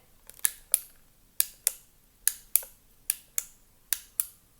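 Flashlight's push-button switch clicked on and off over and over: sharp clicks in pairs, five pairs, a little under a second apart.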